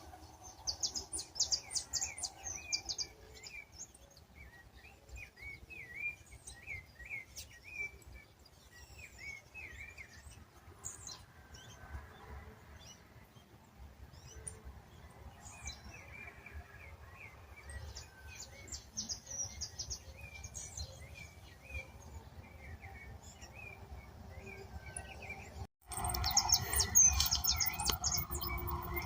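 Mixed wild birds singing and calling: runs of short, repeated chirping notes with higher trilling notes above them. Near the end the sound cuts abruptly to a louder, busier chorus.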